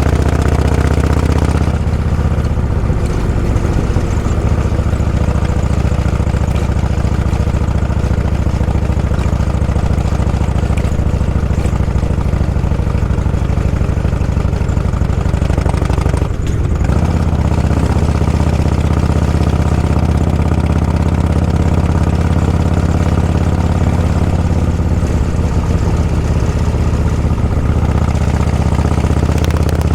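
Motorcycle engine running at a low, steady speed, with a brief dip in the engine note about halfway through.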